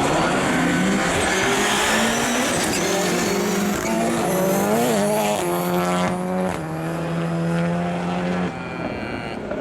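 Rallycross Supercars racing flat out, engines revving hard through gear changes with tyre squeal. About five seconds in the pitch climbs and drops at a shift, holds steady, then falls away near the end.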